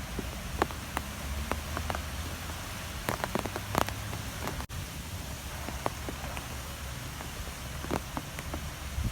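Strong wind blowing: a steady low rumble with a hiss over it, and scattered sharp ticks and taps. The sound drops out for an instant about halfway through.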